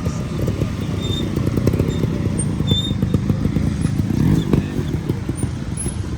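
Off-road motorcycle engine running with rapid firing pulses, revving up and back down about four seconds in.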